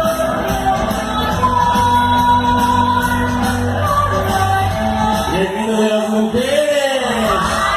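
Live band music with a singer, played loud through a PA sound system over a steady bass. A voice slides up and down near the end.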